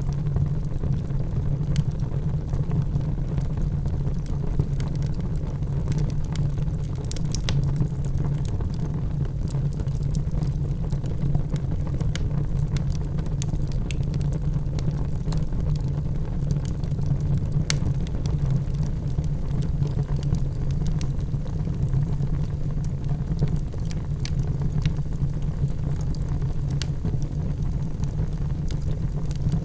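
Wood fire in a fireplace crackling: a steady low rumble of flames with sparse, sharp pops and snaps scattered throughout.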